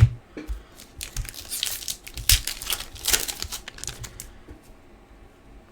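Crinkling and tearing of a foil trading-card pack wrapper as a pack of hockey cards is opened and handled, with the loudest crinkles between about one and three and a half seconds in.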